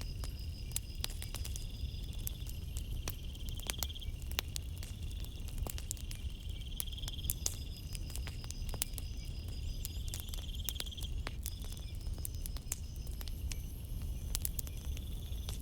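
Campfire crackling with frequent sharp pops over a steady low rumble of the flames. Night insects trill in short pulsed bursts about every three to four seconds over a steady high chirring.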